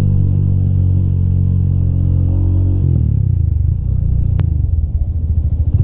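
Rusi Classic 250 motorcycle engine running at a steady speed, then dropping to a lower, uneven chug about three seconds in as it slows. A single sharp click a little past the middle.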